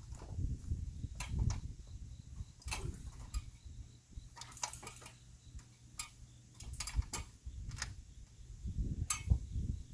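Scattered sharp clicks and light knocks at irregular intervals, over a low rumble of handling noise.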